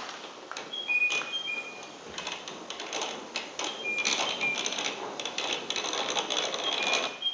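Hornby OO gauge model train running during shunting: irregular light clicking and clattering of wheels over the track, thickest in the second half. Several short, high, chirp-like tones sound over it.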